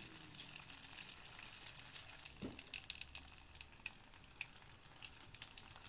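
Brik-pastry bourek rolls deep-frying in hot oil: a steady, quiet sizzle with many small crackles and pops.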